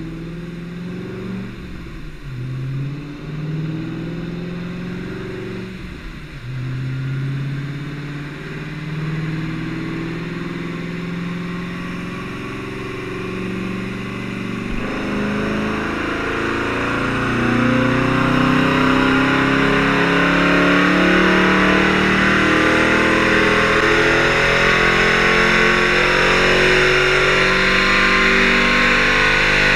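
2003 Chevrolet Corvette Z06's LS6 V8 running on a chassis dyno: shifting part-throttle revs for about the first half, then a wide-open-throttle pull that climbs steadily in pitch and grows louder toward high rpm.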